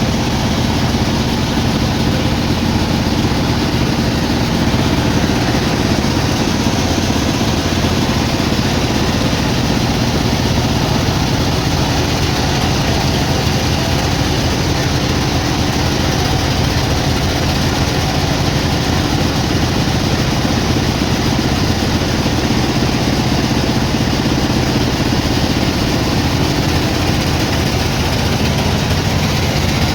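Sawmill machinery running steadily: a loud, unchanging engine-like drone that holds one pitch throughout.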